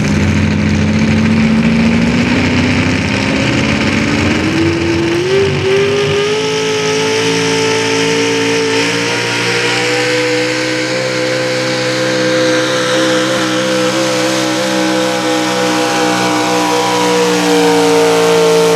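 Modified 4x4 pulling truck's naturally aspirated 650-cubic-inch engine at full throttle, pulling a sled. The engine note climbs over the first six seconds or so, then holds high and steady through the rest of the pull.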